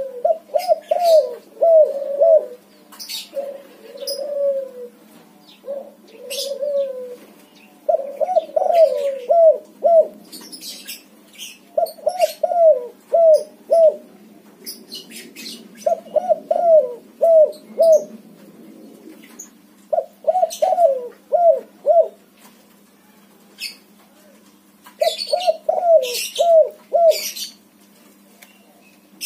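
White-morph spotted dove (tekukur) cooing its song in repeated phrases of four or five notes, roughly every four seconds. Short, sharp, high chirps from smaller birds fall between the phrases, over a faint steady hum.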